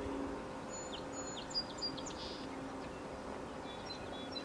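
Small birds chirping and whistling in short high calls, in two clusters, over a faint steady hum.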